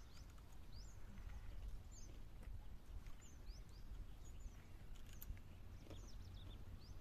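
Small birds calling outdoors: short, high chirps sweeping up in pitch, about one or two a second, over a steady low rumble.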